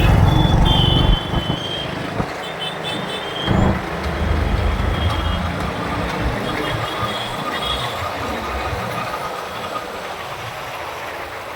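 Road traffic noise heard from a moving motorcycle. A loud low rumble fades about a second in, leaving steadier, quieter road noise with a brief thump a little after three seconds.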